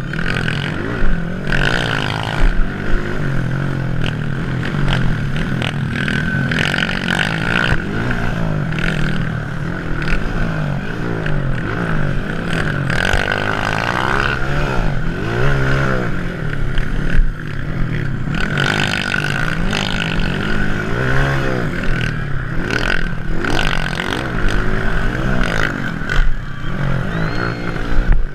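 Several motocross bikes racing, their engines revving up and down continuously, with many overlapping engine notes rising and falling.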